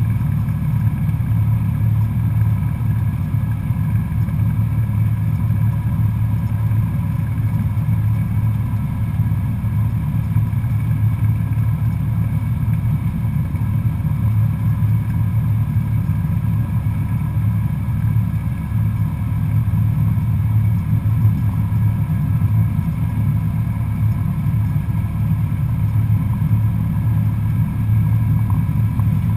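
Cessna 172SP Skyhawk's four-cylinder Lycoming engine and propeller running at a steady drone, heard from inside the cabin.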